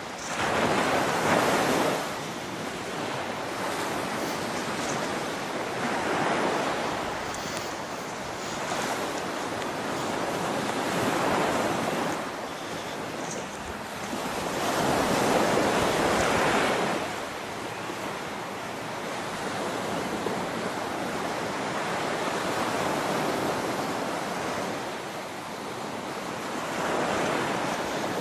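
Rushing water with wind buffeting the microphone: a continuous hiss that swells and eases every few seconds.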